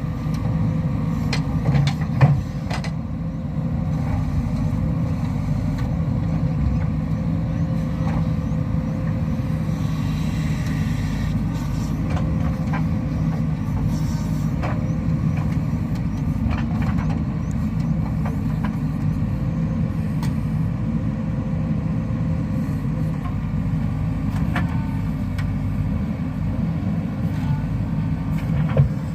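Heavy diesel engine running steadily under load with a low drone, with a few sharp knocks and clanks of machinery scattered through it.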